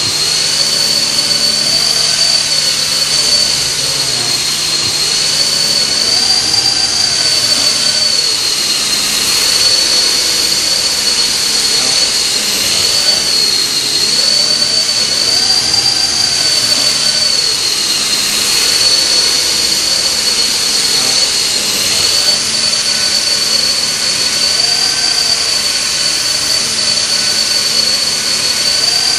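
Radio-controlled model helicopter flying: a steady high-pitched whine that wavers slightly, with a lower tone that swells up and down in pitch every few seconds.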